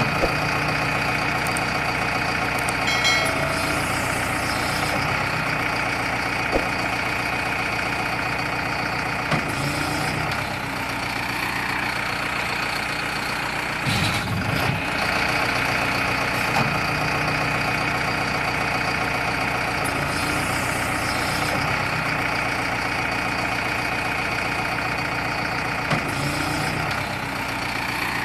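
Engine idling steadily, with a few short clicks.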